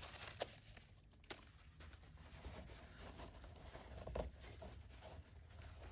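Faint, quiet handling noises: two light clicks about half a second and a second and a third in, and a soft knock about four seconds in, over low room tone.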